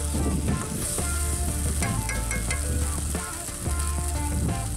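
Egg tomato curry sizzling in a kadai over a wood fire, stirred with a spoon, under background music with notes and a deep bass that comes in and drops out every second or so.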